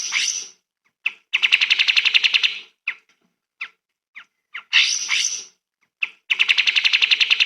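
Cage songbird singing: sharp sweeping call notes, then a fast trill of about ten notes a second lasting just over a second, with the pattern repeated twice.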